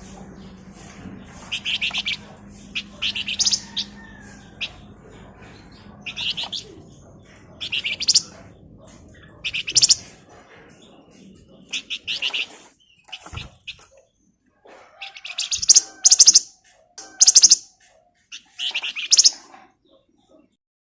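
A flamboyan (wergan Jawa, Javan fulvetta) singing a string of short, rapid, high-pitched chattering trills, each less than a second long and repeated every second or two. The trills grow louder in the second half.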